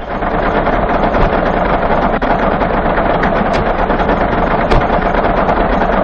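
An engine or motor running steadily.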